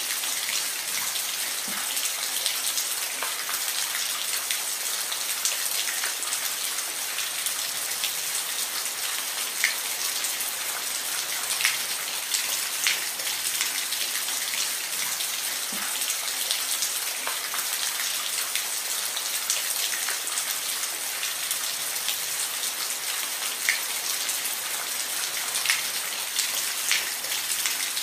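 Steady rain falling, an even hiss with many individual drops pattering sharply close by.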